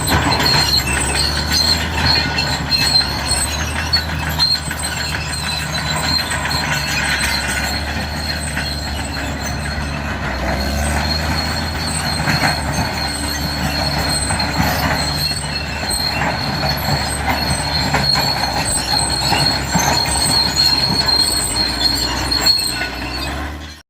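Crawler bulldozer working: the diesel engine runs steadily under a high, steady squeal and metallic clatter from its steel tracks. The sound stops abruptly near the end.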